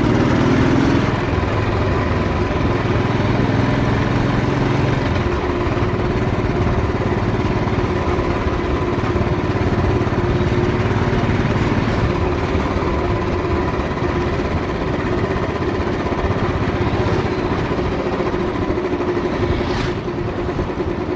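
Old Royal Enfield single-cylinder motorcycle engine running while riding, with steady wind and road noise on a chest-mounted camera. The engine note is strongest in the first few seconds, then settles into a steady run.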